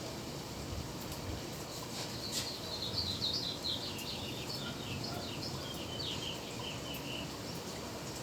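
Wind blowing over the microphone with a steady low rumble. A small bird sings a long run of quick chirps that falls gradually in pitch, starting about two seconds in and stopping about a second before the end.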